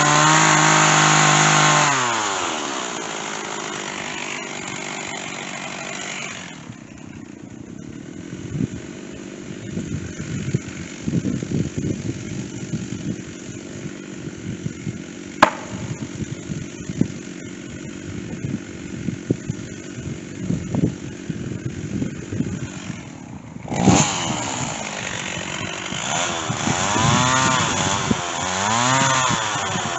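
Stihl chainsaw with a dull chain, running at high revs, then dropping back to a low idle about two seconds in. It idles for a long stretch with scattered knocks and a sharp click. Near the end it revs up again and runs with a rising and falling pitch, as it does when cutting.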